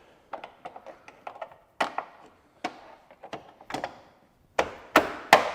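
Plastic interior trim panel being pressed back into place, giving an irregular series of clicks and knocks as its clips seat. Several louder knocks come near the end.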